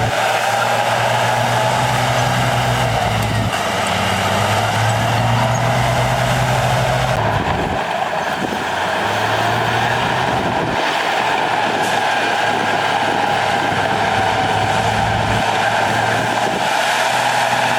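Diesel engine of heavy earthmoving machinery running steadily, its note shifting a couple of times, with a steady high whine over it.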